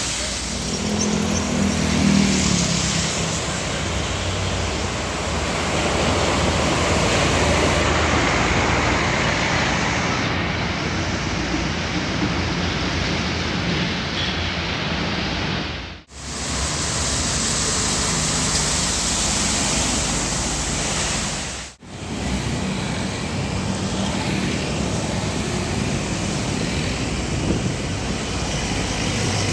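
Roadside traffic noise: heavy trucks passing, a steady loud rush of tyres and engines with a low engine drone near the start. The sound cuts out abruptly twice, about halfway through and again some six seconds later.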